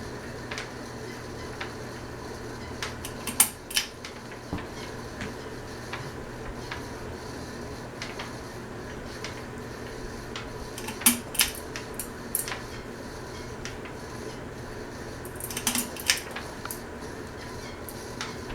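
Sierra ceiling fan running with a steady motor hum, overlaid by scattered sharp metallic clicks and rattles that come in clusters a few seconds in, about two-thirds through, and near the end.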